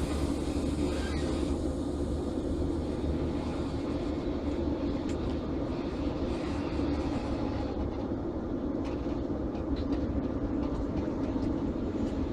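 Locomotive-hauled passenger train rolling out and past, with class 90 electric locomotive 90003 pushing at the rear: a steady rumble of wheels on rail with a constant electric hum.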